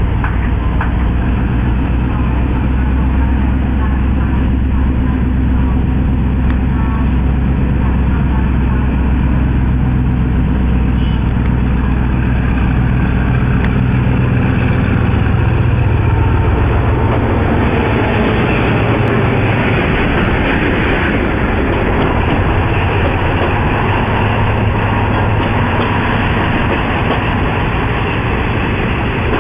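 Diesel locomotive hauling a passenger train past at close range, its engine a deep, steady drone. About sixteen seconds in the engine sound falls away and the passenger coaches roll by with a steady rumble of wheels on the rails.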